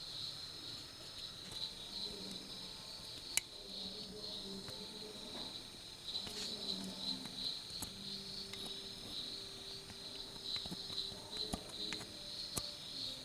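Insects chirping in a steady high, pulsing trill, with scattered faint clicks and one sharper click about three seconds in.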